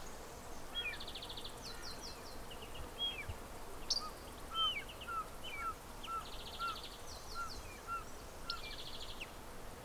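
Several small birds calling over steady outdoor background noise: quick high trills, short swooping chirps, and, from about four seconds in, a run of soft repeated notes about twice a second.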